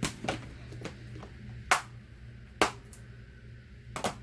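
About five sharp clicks and knocks from rubber-stamping supplies being picked up and set down on a craft table, the loudest two near the middle.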